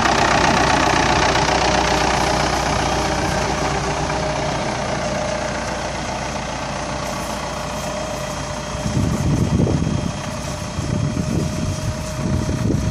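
Ford 7610 Series II tractor's four-cylinder diesel engine running steadily, easing slightly in loudness; from about nine seconds in, uneven low rumbling surges break in over it.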